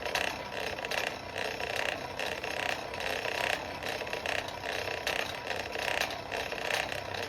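Steady rushing noise of a coal forge's blower and fire, broken by uneven crackling pulses.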